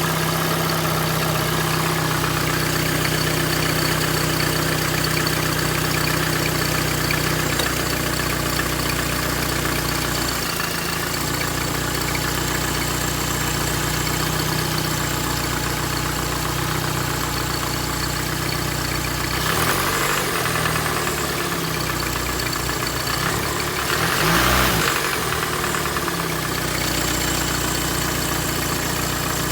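Peugeot 307 SW engine idling steadily, with brief unsettled stretches about twenty seconds in and again about twenty-four seconds in, the second one a little louder. This is the car's unexplained strange sound.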